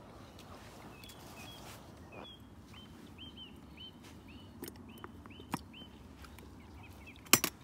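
A small bird calling, a short hooked high note repeated about one and a half times a second for several seconds over a faint outdoor background. A couple of light clicks come in the middle, and a sharp double knock near the end is the loudest sound.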